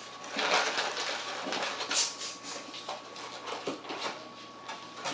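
Close-miked eating: irregular chewing and mouth noises with short sharp clicks, over a faint steady high tone.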